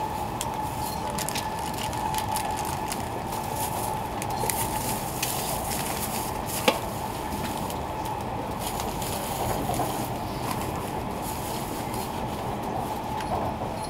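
Cabin noise of an E2-series Shinkansen train running, heard from inside: a steady rumble with a steady hum, scattered faint crackles and one sharp click about seven seconds in.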